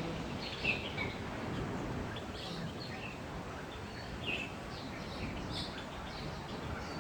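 Aviary birds of several kinds chirping, with short calls scattered throughout over a steady background hiss.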